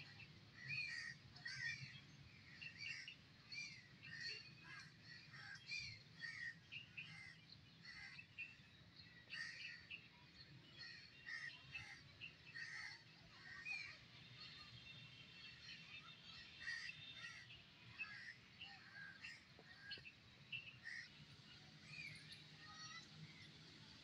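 Many small birds chirping, short high calls in quick succession over a faint low hum.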